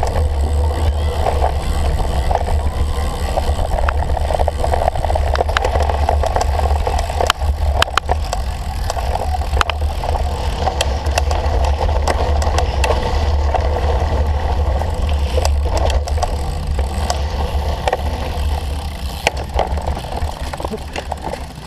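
Cyclocross bike being ridden over rough race-course ground: a steady deep rumble of wind buffeting the microphone, tyre noise, and scattered sharp clicks and rattles from the bike.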